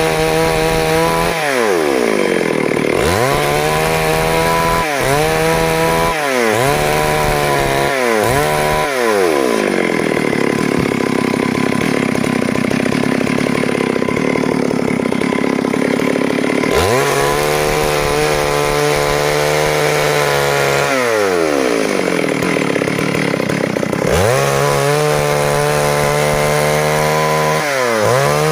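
Stihl MS 382 two-stroke chainsaw sawing a board lengthwise from timber. The engine runs at high revs, and its pitch sags whenever the chain loads up in the cut: several short dips early on, a long stretch of cutting in the middle, and another dip before the end.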